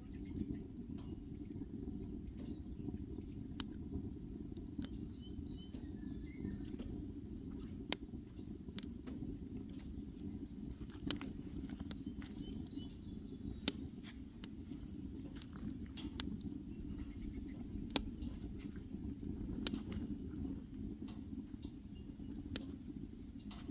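Wood fire in a small camp stove crackling, with irregular sharp pops over a steady low rumble.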